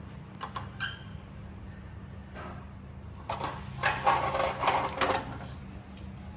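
Handling noise from small toy cars: a few light clicks, then about two seconds of scraping and rattling a little after the middle, over a steady low hum.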